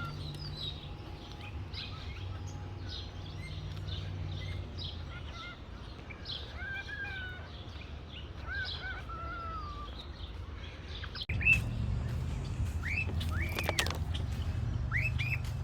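Birds chirping: many short calls, some sweeping up and down in pitch, over a steady low rumble. A single knock comes about eleven seconds in, after which the rumble is louder.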